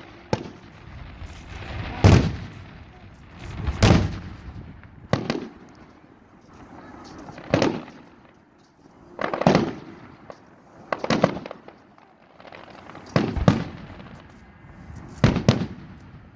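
Aerial fireworks shells bursting: about ten sharp bangs, one every second or two, some in quick pairs, with a rumbling echo trailing between them.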